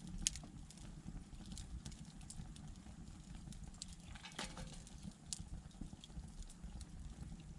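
Wood candle of upright thin logs burning down, with scattered faint crackles and pops over a low steady background; one sharper pop just after the start.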